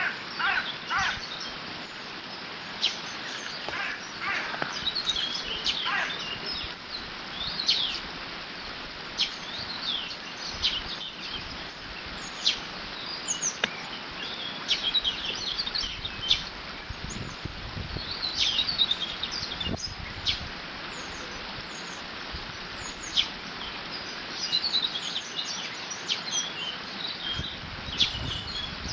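Water flowing through a beaver dam as a steady rushing hiss, with small birds chirping and singing in short phrases again and again. Low rumbles of wind come twice, near the middle and near the end.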